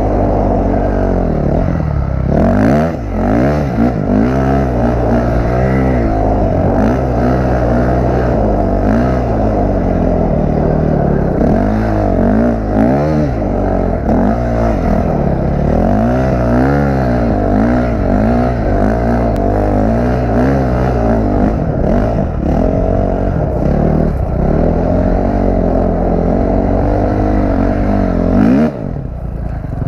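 450 motocross dirt bike's four-stroke engine under hard riding, revving up and down over and over as the throttle is worked. The pitch climbs and falls every second or two, with a brief drop near the end.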